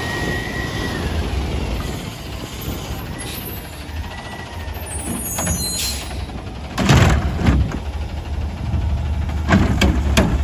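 Autocar ACX garbage truck's diesel engine running with a steady low rumble. A loud hiss of air, like an air-brake release, comes about seven seconds in, and shorter hisses follow near the end.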